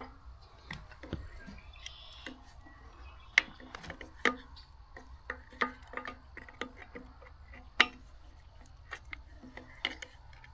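Scattered light metallic clicks and taps, with a few sharper knocks, from steel pieces being handled and knocked on the work.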